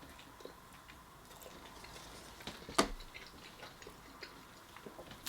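Faint chewing of a mouthful of chimichanga with sour cream: scattered soft mouth clicks and one sharper click about three seconds in.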